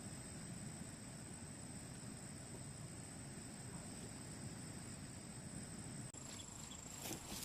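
Insects trilling steadily in a single high tone over a soft outdoor hush. About six seconds in the sound changes abruptly, and a few short knocks follow near the end.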